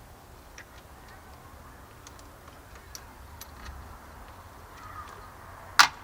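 Scattered light clicks and taps of hand tools on metal bolts, with one sharp, much louder click near the end.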